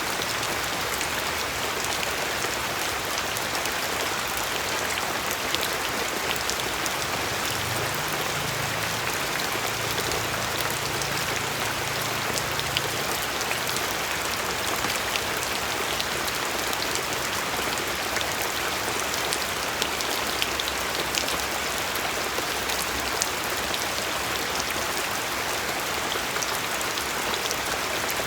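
Steady rain falling, a dense even hiss with scattered sharp ticks of individual drops hitting a surface.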